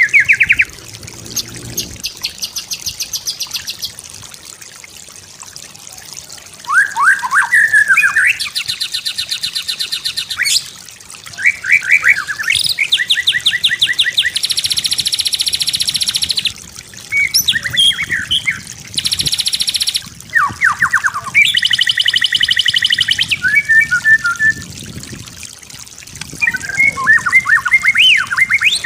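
White-rumped shama (murai batu) singing a varied song: short falling whistled phrases alternate with long, fast, rattling trills of rapidly repeated notes, with brief pauses between phrases.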